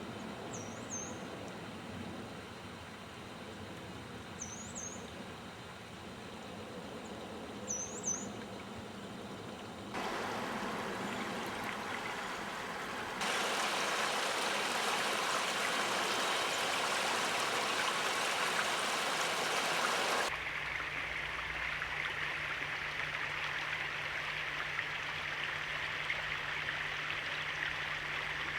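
Flowing stream water, getting louder in steps about ten and thirteen seconds in and changing in tone about twenty seconds in, when a steady low hum joins it. A bird gives three or four short, high chirps in the first third.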